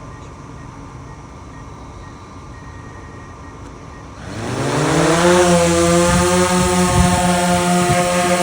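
DJI FPV drone's motors and propellers spooling up about four seconds in: a whine that rises quickly in pitch, then holds as a loud, steady, many-layered buzz. Before that, only a faint steady hum.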